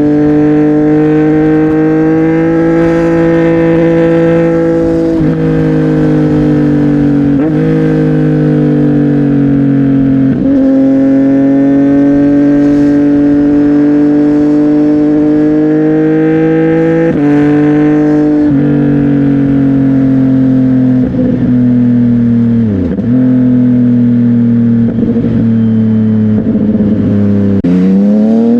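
CFMOTO 675NK inline-triple engine through a Burnout titanium aftermarket exhaust, ridden at steady cruise. The engine note drifts gently, with several short dips in pitch that sound like throttle roll-offs or gear changes. It rises steeply in pitch near the end as the bike accelerates.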